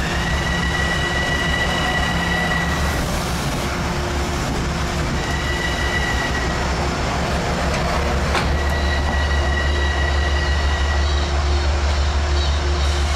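Train rolling close by with a steady low rumble, while a high-pitched wheel squeal comes and goes three times. A single sharp clank sounds about eight seconds in.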